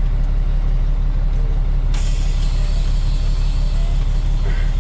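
Truck engine idling with a steady low rumble just before reversing. About two seconds in, a steady hiss sets in suddenly and carries on.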